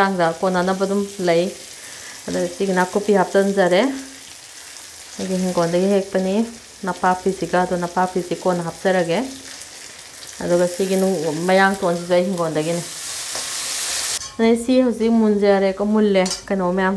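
Chopped Chinese chives and aromatics sizzling as they fry in hot oil in a wok, stirred with a metal slotted spoon. A steady-pitched squeak comes in repeated stretches of a second or two, and the hiss swells briefly near the end.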